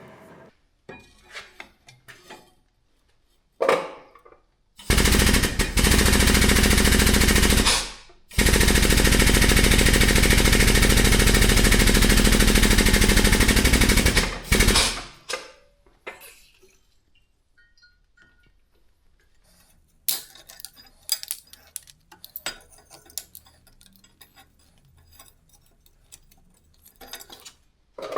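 A powered shop press running in two loud, steady stretches, switched on and off abruptly with a short break between, while it squeezes a forge-heated iron hinge tight around square stock. Before and after come scattered light metal clinks as the hot iron and clamps are handled.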